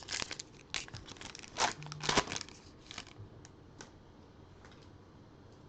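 Trading-card pack wrapper being torn open and crinkled. A run of short rips and rustles comes over the first three seconds, loudest about two seconds in, then a few light clicks.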